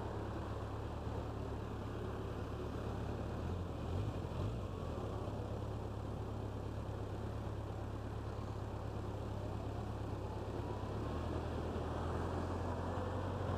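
Motorcycle engine idling steadily while the bike sits stopped, with cars passing across in front.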